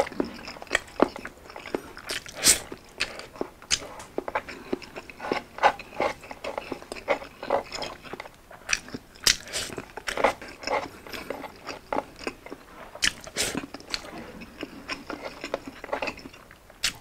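Close-up mukbang eating sounds: a man chewing a mouthful of rice and meat, with irregular sharp mouth clicks and smacks throughout.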